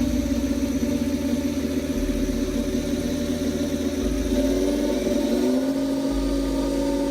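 Small home-built 125 cc V10 engine running steadily, its pitch shifting up and down slightly about five and a half seconds in.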